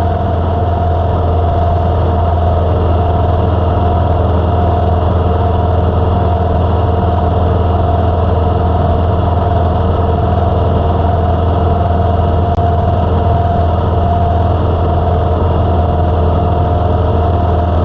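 Motorcycle engine, the 2007 Victory Vegas's V-twin, running steadily at an unchanging speed with a strong low drone.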